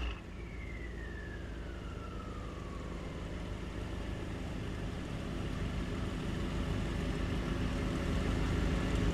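A car engine running steadily at low revs, growing slowly louder, with a whine falling in pitch over the first few seconds.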